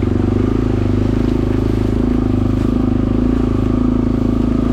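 Suzuki DR-Z250's single-cylinder four-stroke engine running at steady, low revs as the dirt bike plods through mud and water.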